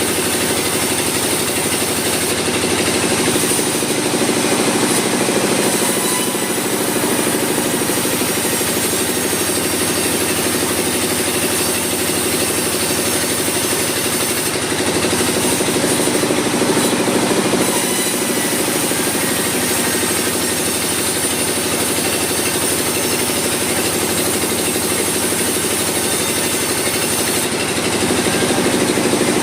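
Sawmill machinery running with a steady, loud mechanical drone that hardly changes.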